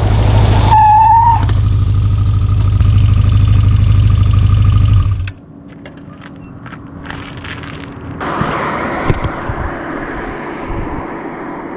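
Yamaha XJ 600 motorcycle at highway speed, engine and wind noise heard from a bike-mounted action camera without a housing. The sound drops away suddenly about five seconds in as the camera comes off the bike, followed by a run of clicks and knocks as it tumbles on the road, then a rising rush of noise.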